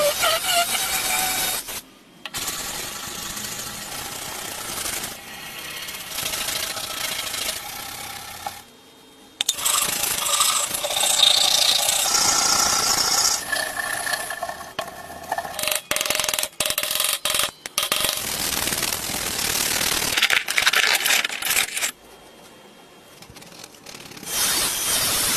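Tools scraping, rubbing and sanding rusty metal parts of a switchblade knife, heard as a series of short cut-together stretches that stop abruptly several times.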